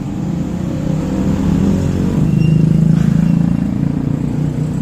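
Isuzu 6HK1 six-cylinder diesel being cranked on its starter and not firing, a steady low rapid pulsing that swells a little midway: the hard-starting engine will not catch.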